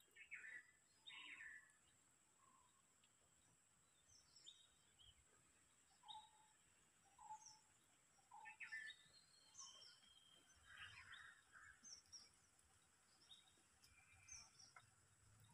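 Faint birds chirping and calling, short scattered notes throughout, over a thin steady high-pitched tone.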